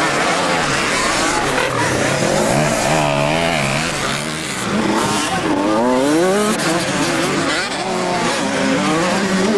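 Several motocross bikes running on a track, their engines revving up and down. The pitch rises and falls as they accelerate and change gear, with more than one engine heard at once.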